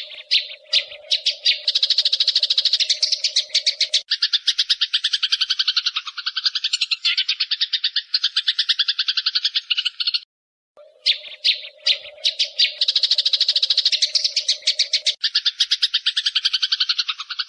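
Songbird calls in fast chattering trills of rapid chirps, many per second, with a lower steady buzz under the first few seconds. The sequence breaks off for a moment about ten seconds in and then starts over, as a looped recording.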